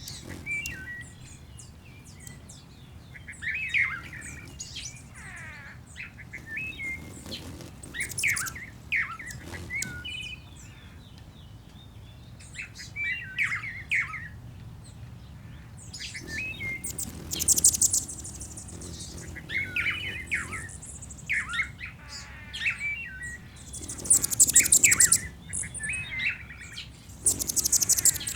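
Mixed wild birds chirping and calling, with many short warbled phrases and several very high, rapid trills; the trills are loudest about two-thirds of the way in and near the end.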